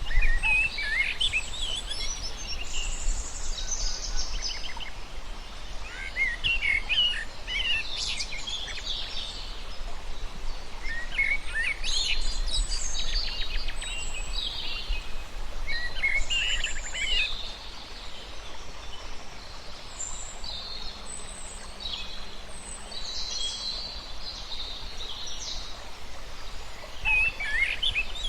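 Small birds singing and chirping in repeated bursts of short, quick, high phrases, over a steady low rumble.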